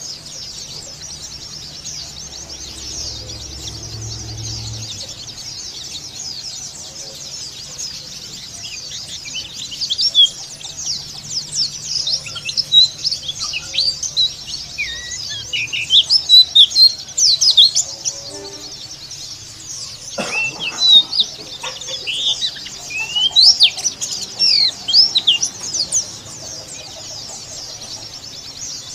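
White-eye (pleci, Zosterops) twittering in quick, rough chattering runs of short gliding chirps, loudest from about a third of the way in until near the end, over a steady high hiss.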